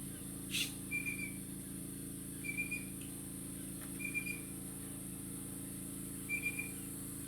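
Wild birds calling: a short, high whistled note repeated four times, about every one and a half seconds, with one brief harsh call about half a second in.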